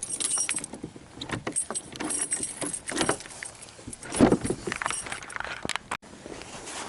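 Metal jangling and clicking, like a bunch of keys being handled, with irregular clicks throughout and a louder knock about four seconds in.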